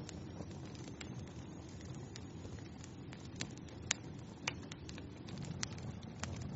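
Wood fire in a fireplace crackling: irregular sharp pops and snaps over a steady low rumble of the flames, with the loudest pop about four seconds in.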